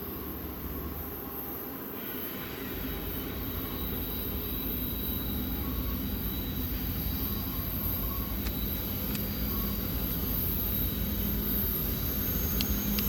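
Diesel freight locomotives approaching on a curve, their engine drone growing steadily louder.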